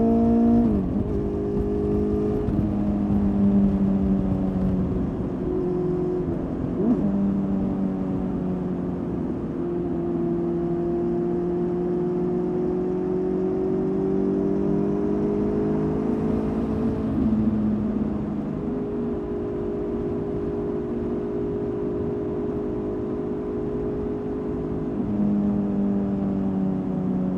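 Honda CB400 Super Four's inline-four engine through a Blueflame aftermarket exhaust, running under way. Its pitch holds or drifts slowly and changes sharply about five times, at gear changes, over a steady low rushing noise.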